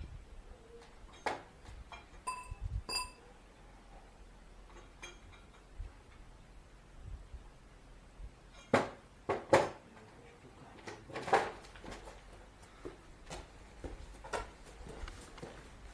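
Scattered metallic clinks and knocks of tools and parts being handled, with a short metal ring about two to three seconds in and a few louder thuds around the middle.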